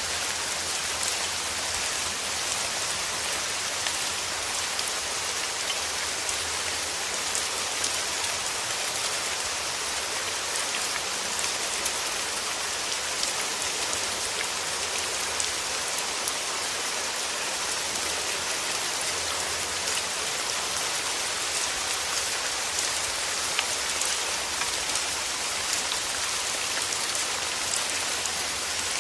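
Steady rainfall pattering on a surface, a dense even hiss with many small droplet ticks and no change in intensity.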